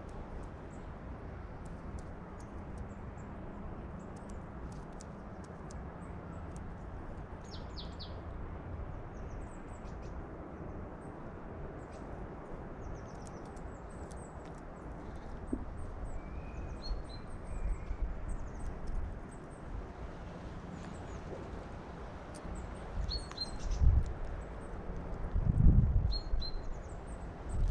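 Small birds chirping, short high chirps scattered throughout over steady outdoor background noise. Two short low rumbles near the end are the loudest sounds.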